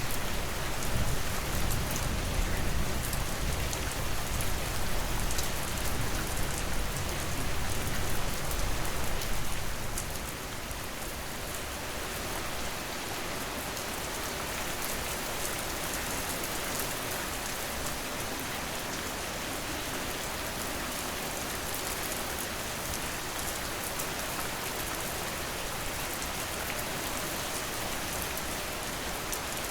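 Steady heavy rain falling on a surface, an even hiss with fine drop patter. A low rumble of thunder sits under it for the first ten seconds or so, then dies away, leaving only the rain.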